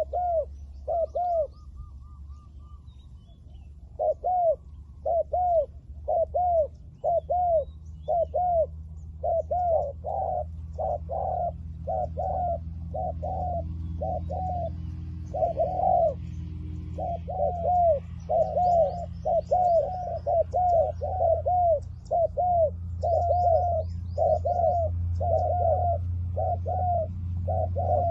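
Spotted doves cooing: short arched coos repeated in quick runs, with a pause of about two seconds near the start. Faint high chirps from small birds and a low steady hum sit underneath.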